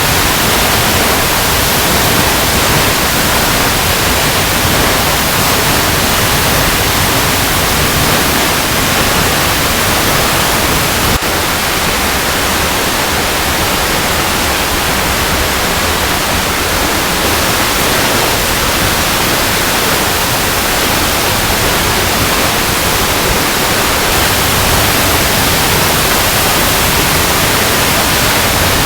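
Waterfall cascading over rocks: a loud, steady, even rush of falling water with a strong hiss.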